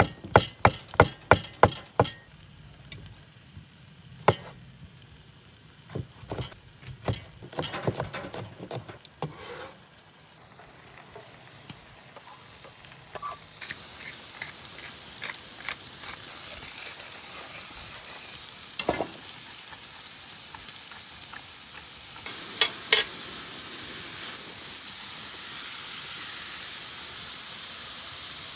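Sharp knocks and clinks of utensils on cookware, a quick run of them at first, then food going into a hot pan and frying with a steady sizzle that starts abruptly about halfway through, with a few more clinks near the end.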